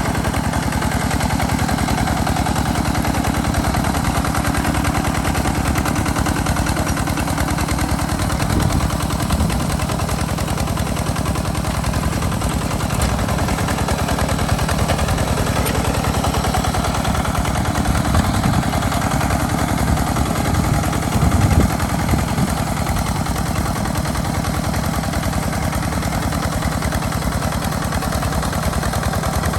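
Walk-behind hand tractor's single-cylinder diesel engine running steadily: a fast, even chugging of exhaust beats, with a brief swell a little past two-thirds of the way through.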